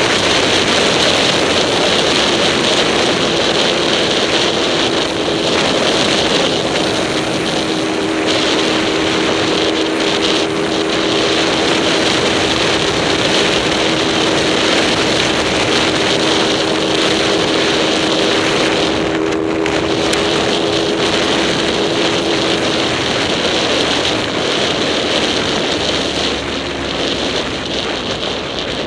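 A vehicle engine running at a steady speed under way, with heavy wind noise on the microphone. The engine note holds steady for about twenty seconds, then eases off near the end.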